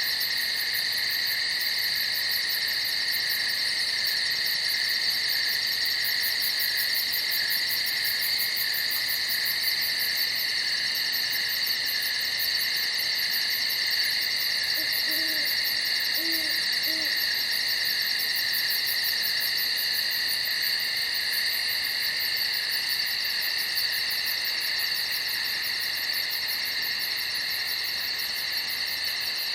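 A dense chorus of crickets chirping at night, a steady high-pitched trill. About halfway through, three short low hoots sound in quick succession.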